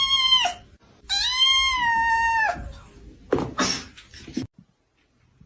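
A cat meowing twice in long, drawn-out cries that drop in pitch at the end, followed a second later by a short breathy noise.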